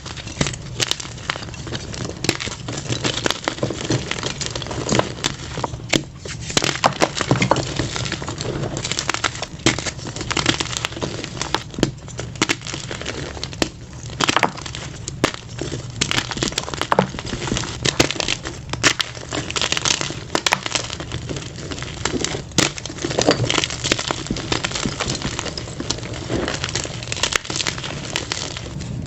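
Plain white gym chalk blocks crushed and crumbled by hand: dense, continuous crunching and crackling.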